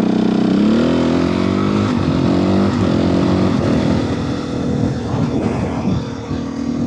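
Motorcycle engine on its stock exhaust pulling through the gears: the pitch climbs, drops at a shift about two and a half seconds in, climbs again, then gives way to a steadier rushing noise.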